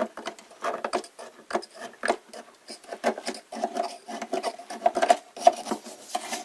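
Rapid, irregular scrubbing and scraping strokes against mineral scale inside a hot air humidifier, several strokes a second.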